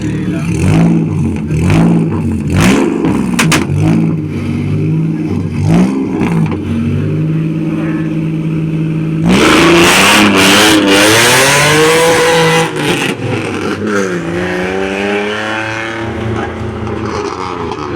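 Rally car at the start line blipping its throttle in quick repeated revs, then holding the revs before launching hard about nine seconds in with a sudden loud burst of noise, its engine climbing up through the gears as it pulls away and fades.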